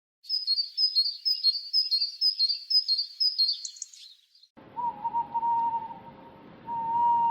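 A bird chirping in a quick run of short, high repeated notes, about three a second, that stops about four seconds in. After a short gap a different clip starts: a held, slightly wavering call over a steady background hiss, sounding twice.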